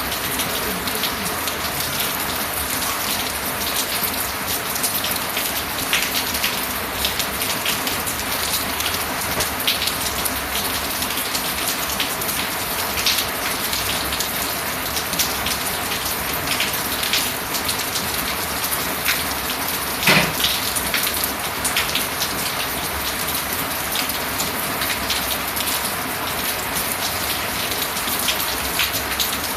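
Steady rain falling, with many close drops ticking through it, and one louder single hit about two-thirds of the way through.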